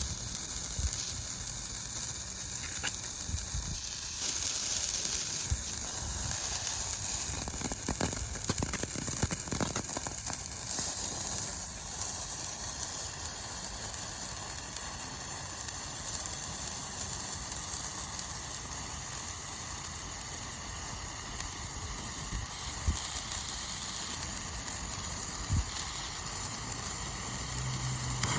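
Sparklers burning: a steady fizzing hiss full of small crackling pops.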